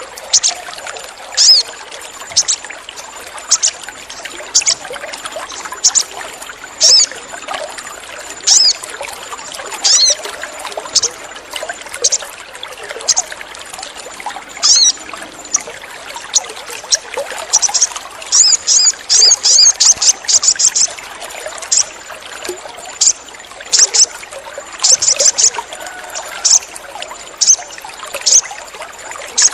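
Sogon (little spiderhunter) giving short, sharp, high 'cit' calls, about one a second, with a quick chattering run of calls about 18 to 21 seconds in, over a steady background of trickling water.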